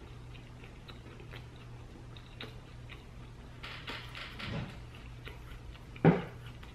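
A person chewing a mouthful of curly fries, with soft scattered clicks and crunches of the mouth, and one short louder mouth sound about six seconds in. A steady low hum runs underneath.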